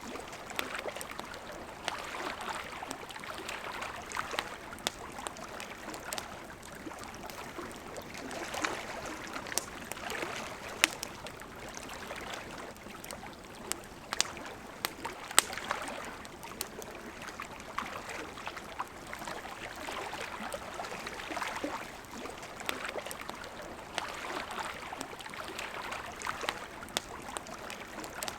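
River water running steadily, with a wood campfire crackling and snapping over it in scattered sharp pops, two of them louder, about 11 and 15 seconds in.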